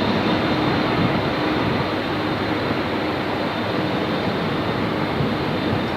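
Jet airliner engine noise: a steady, loud rush that slowly eases off.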